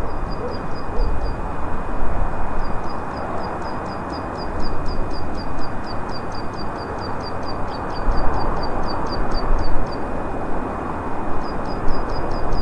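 A moving car's road and engine noise, heard from inside the cabin. Over it runs a rapid, evenly paced string of short, high chirps, about four or five a second, which pauses twice.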